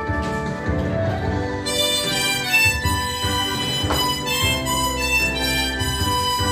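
Harmonicas played together, carrying a slow melody in sustained, chord-rich notes that change every second or so.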